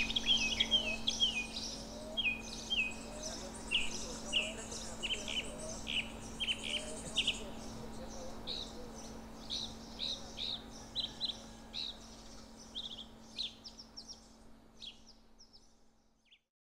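Birds chirping, many short calls in quick succession over a faint steady hum, growing fainter and fading out near the end.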